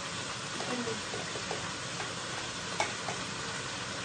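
Chicken pieces frying in oil in a pot on a gas burner, with a steady sizzle. A few light clicks come through, one sharper about three seconds in.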